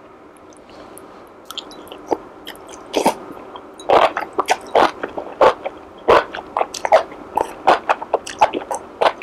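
A person eating close to the microphone: wet mouth smacks and chewing, starting about three seconds in, with sharp irregular clicks several times a second.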